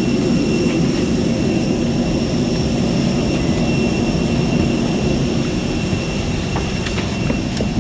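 Steady noise of a parked jet airliner during boarding: a continuous low rumble with a thin, steady high-pitched whine over it.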